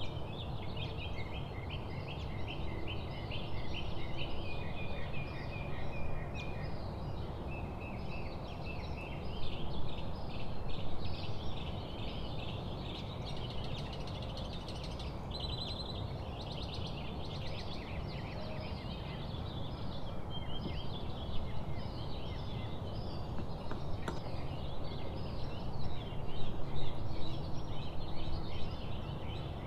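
Small birds chirping and trilling over and over, high-pitched, over a steady low background rumble.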